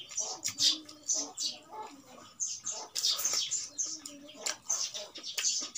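Close-up chewing and lip-smacking of a mouthful of rice: irregular wet smacks and clicks, several to a second.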